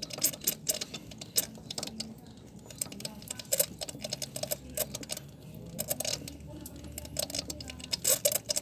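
Irregular clicking and light knocking from the hand primer pump on a Mitsubishi L300's diesel fuel filter being worked by hand, bleeding air out of the fuel line of a hard-starting engine. The engine is not running.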